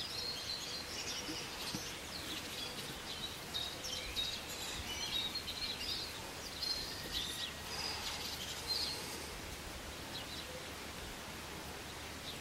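Small songbirds chirping and singing in quick, high phrases over a steady background hiss; the calls thin out about nine seconds in.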